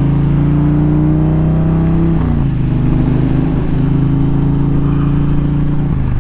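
Indian Challenger's liquid-cooled PowerPlus V-twin engine running under steady throttle while riding. The engine note drops in pitch about two seconds in, holds steady again, and breaks off shortly before the end.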